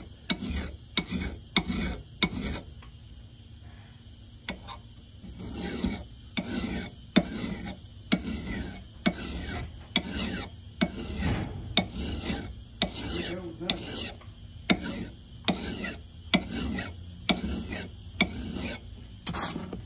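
Hand file rasping across the steel edge of an axe head in repeated strokes, about one a second, after a pause of a few seconds near the start. The file is shaping the edge bevel.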